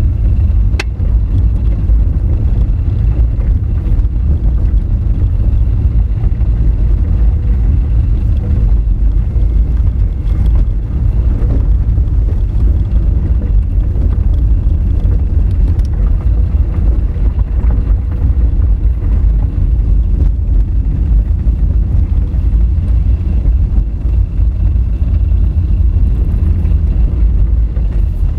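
Honda Fit driving over a rough, rocky gravel road: a loud, steady low rumble of tyres and road noise. There is one sharp click about a second in.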